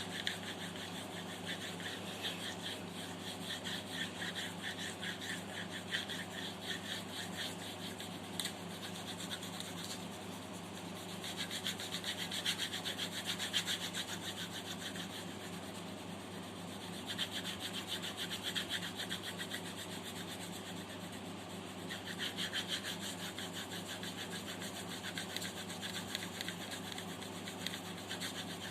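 Pencil scratching on paper in quick back-and-forth shading strokes, coming in spells of a few seconds, with the busiest stretches about a third of the way in, around two-thirds and near three-quarters. A steady low hum runs underneath.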